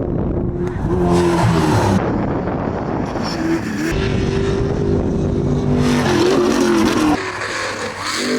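Car engine at high revs, its pitch rising and falling, with bursts of tyre noise about a second in and again around six seconds in.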